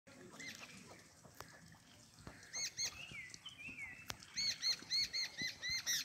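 Bird chirping: a pair of short chirps, a brief gliding call, then near the end a quick run of about seven chirps, some four a second. Faint scattered clicks sound between the chirps.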